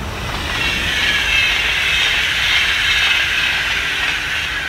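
Passenger train passing at speed on the adjacent track: a loud rushing hiss of wheels and air that swells, peaks in the middle and starts to fade near the end.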